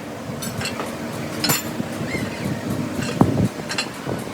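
Metal-on-metal clinks and knocks during truck suspension repair work, several sharp strikes at irregular intervals, the loudest about a second and a half in, over a low steady rumble.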